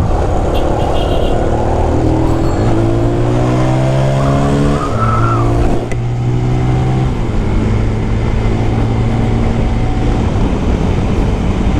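Benelli 165S motorcycle engine accelerating through the gears: its note rises and drops back at each of three upshifts, then holds steady at cruising speed, with wind rushing past the microphone.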